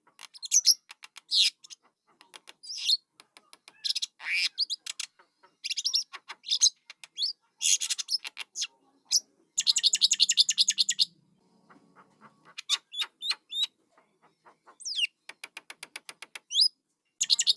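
Young jalak (starling) chick calling: irregular runs of sharp, high chirps and clicks, with a dense, buzzy rattling run of about a second and a half a little past the middle, and a couple of short whistled slurs near the end.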